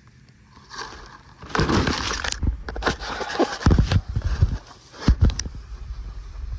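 Loud rustling and scraping, with several dull knocks, starting about a second in.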